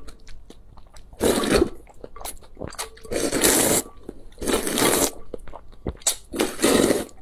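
Close-miked eating sounds: four loud noisy bursts of mouth noise, each lasting about half a second to a second, with small clicks and chewing sounds between them.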